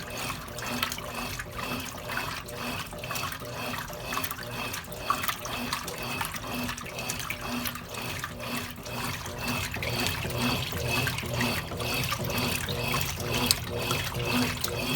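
Consul Cargo 8 kg washing machine running with water flowing, over a steady hum with a regular pulse about twice a second.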